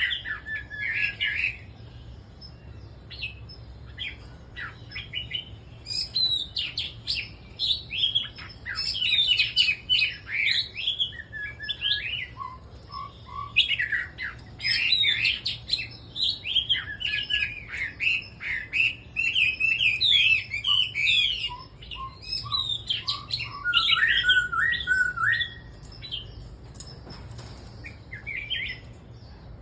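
Caged red-whiskered bulbuls singing, several birds overlapping in short warbled phrases that come in busy bursts with sparser stretches between.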